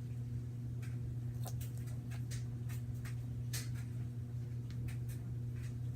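Slime being kneaded and squished by hand as foam is mixed in: irregular small sticky clicks and squelches, over a steady low hum.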